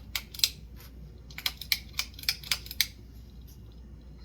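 A light switch clicked over and over, two clicks and then a quick run of about six, trying the fan's light, which stays dead.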